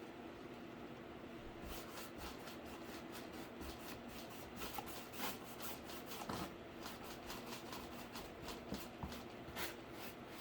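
Scattered small taps, scratches and rubbing of hands working on a cardboard PC case, over a steady low hum.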